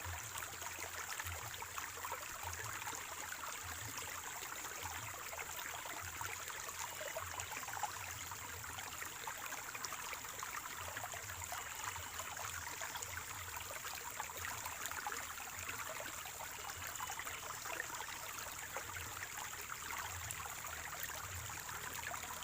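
Spring-fed stream trickling and gurgling steadily over rocks.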